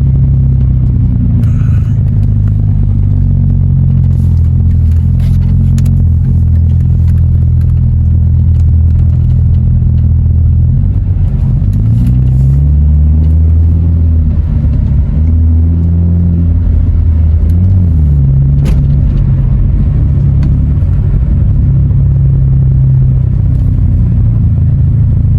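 A sports car's engine and exhaust droning steadily at low revs while driving, heard from inside the cabin. Partway through, the pitch dips and rises a few times as the revs change.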